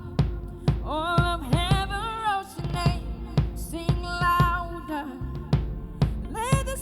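Live worship music: a band with drum kit beats and bass under a singer's held, wavering notes.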